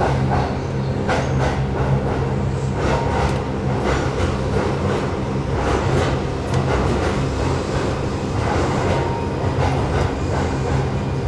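Keihan 8000 series train standing at the platform before departure: a steady low electrical hum with scattered clicks and knocks.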